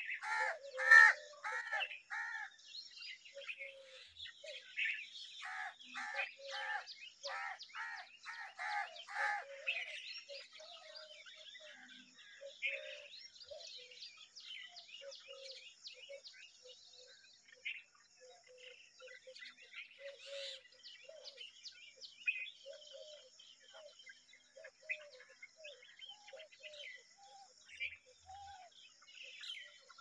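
Wild birds calling around the nest: two runs of loud, evenly repeated calls, about two a second, near the start and again a few seconds later, then scattered shorter chirps. A faint steady high buzz runs underneath.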